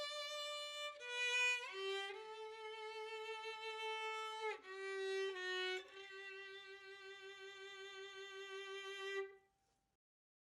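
Background music: a solo violin playing a slow melody of long held notes, the last note held for several seconds before the music stops.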